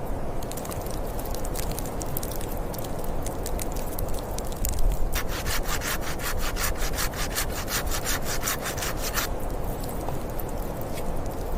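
Hand saw cutting wood in fast, even strokes, about five a second, for roughly four seconds starting about five seconds in, over a steady low rumble.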